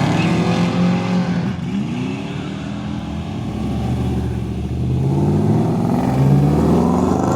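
Car engines revving and accelerating as cars drive past one after another. The engine pitch climbs and falls with each rev, and a longer rising rev builds from about five seconds in.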